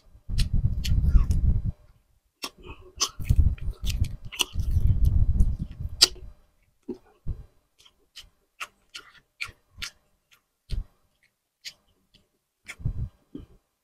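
Close-miked chewing and lip-smacking while eating grilled tuna jaw by hand. There are heavy, muffled low rumbles in the first six seconds, then scattered sharp wet clicks and smacks.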